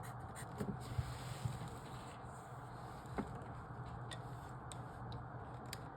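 Quiet room tone with a steady low hum and a scattering of faint, short clicks.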